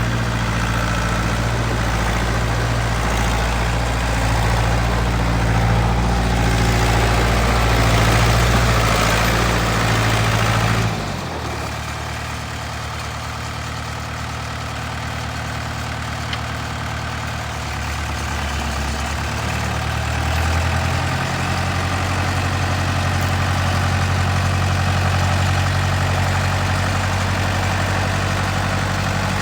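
Ditch Witch 7610 trencher's engine running steadily. Its note drops suddenly about a third of the way in, then steps back up to a steady higher pitch after about twenty seconds.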